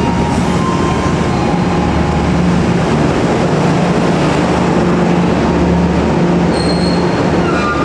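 Passenger train coaches moving past close by: a steady loud rumble of wheels on the rails with a low hum, and a few brief high wheel squeals about two-thirds of the way through.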